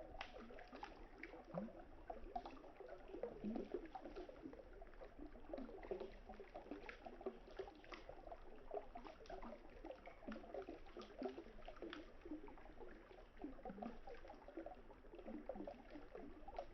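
River water flowing and gurgling, with a wood campfire crackling in scattered sharp pops.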